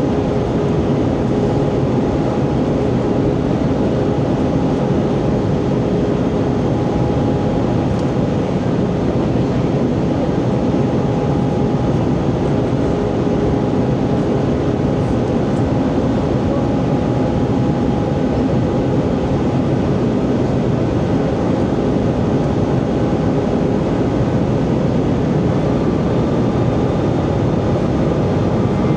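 Steady cabin noise inside an Airbus A320 in flight: an even rush of air and engine noise with a few faint steady tones running through it.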